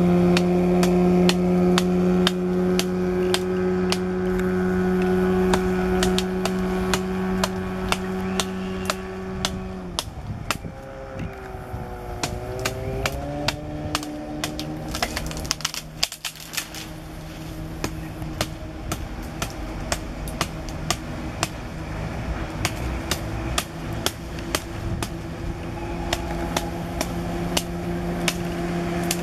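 Boat engine running at a steady high throttle, eased off about ten seconds in with its pitch wavering, then picking up again and slowly rising near the end. Sharp knocks recur throughout.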